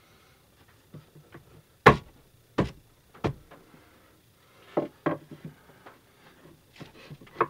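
Hard wooden knocks and thumps as a heavy 18-inch subwoofer is worked loose from its enclosure: three hard hits about two-thirds of a second apart, then a quicker run of lighter knocks and one more hit near the end.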